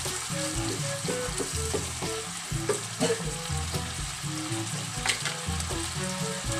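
Diced chicken sizzling in palm oil and butter in a nonstick pan, stirred with a wooden spatula at first, with a few sharp knocks in the middle. Background music with a steady bass line plays over it.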